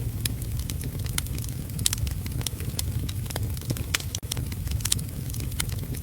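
Wood fire crackling, with frequent irregular sharp pops and snaps over a steady low rumble, and heavy rain mixed in. The sound drops out for a moment about four seconds in.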